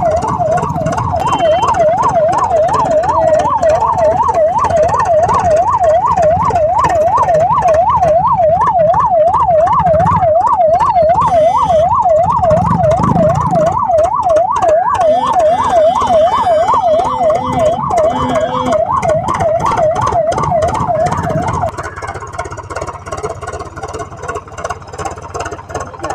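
Electronic siren warbling rapidly up and down, about three times a second, in a fast yelp pattern. It cuts off near the end.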